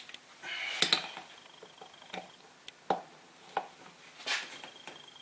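Small metal tools clinking and scraping on a cast throttle body as a driver bit is fitted to a tight screw: sharp clicks and taps, with two short rattling scrapes, about a second in and again near the end.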